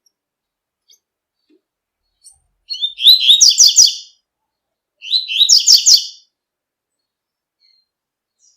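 Double-collared seedeater (coleiro) singing the 'tui tui' song: two short phrases of rapid, high notes, each lasting about a second and a half, the second following about a second after the first ends.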